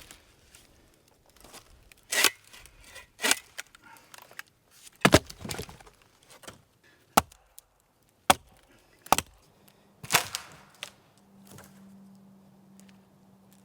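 Wood being chopped with a blade: a string of sharp, separate strikes at uneven intervals, a second or two apart.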